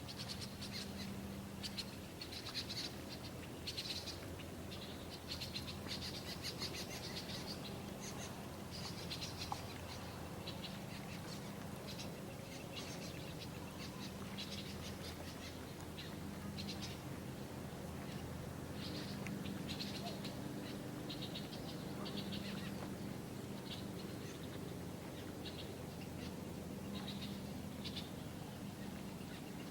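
Small birds chirping and trilling in short repeated bursts over a faint, steady low hum.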